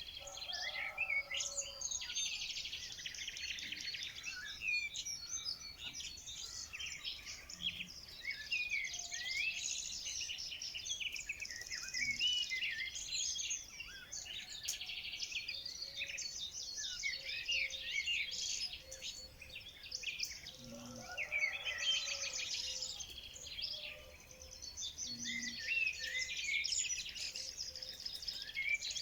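A chorus of many birds chirping and singing at once: quick, high-pitched calls overlapping continuously.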